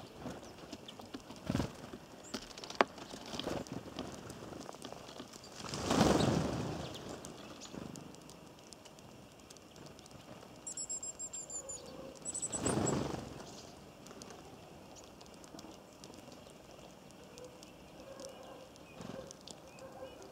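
Birds at a feeder: scattered taps and knocks, with a high, rapid chirping call about ten to twelve seconds in. Two short loud whooshes come about six and thirteen seconds in.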